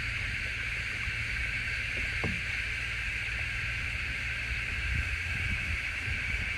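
Steady, high-pitched insect chorus over a low rumble of wind on the microphone, with one faint knock about two seconds in.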